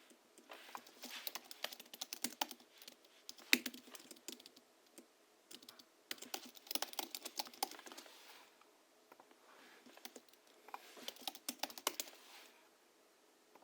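Typing on a Hansung GHL-5X keyboard with lubed springs (Krytox 103 and 107) and 50 g rubber domes, giving a muted, thocky key sound. It comes in three quick runs of keystrokes with short pauses between them, plus one single heavier keystroke about three and a half seconds in.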